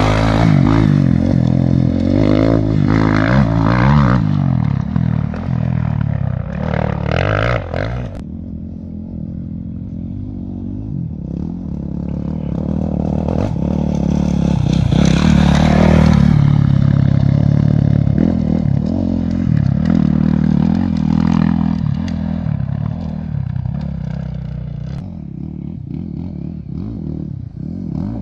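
A motor vehicle engine running, its pitch and loudness rising and falling, louder about halfway through.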